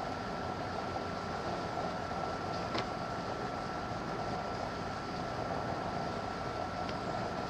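Wet sandpaper rubbing over a plastic headlight lens, a steady hiss, with one sharp click about three seconds in.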